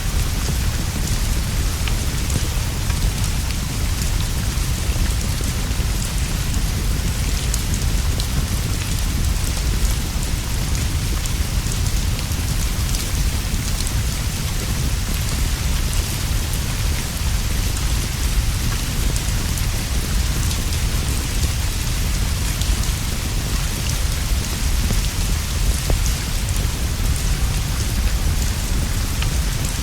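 Steady rain falling on leaves and a straw roof: a continuous hiss with a deep low rumble underneath and many small scattered drop ticks, unchanging throughout.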